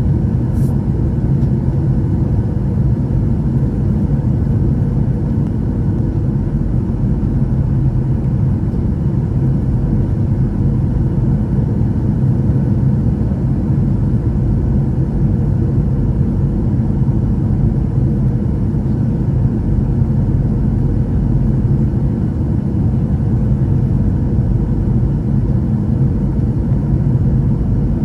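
Steady low rumble inside the cabin of a Boeing 737-800 on final approach: the CFM56 turbofan engines and the airflow over the fuselage, heard from a passenger seat. A faint tick comes about half a second in.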